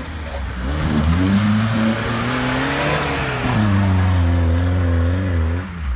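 Lada Niva's engine revving hard under load, its pitch climbing for about three seconds, then dropping and holding high until it stops shortly before the end. A rushing noise rides over it, loudest as the revs peak.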